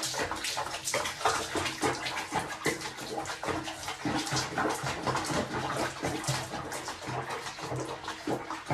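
Water splashing irregularly in quick, uneven splashes, over a low steady hum.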